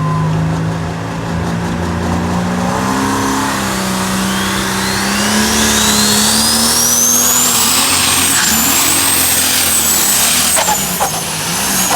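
Pulling tractor's diesel engine running hard under load. A high-pitched whine climbs steadily over several seconds, then holds.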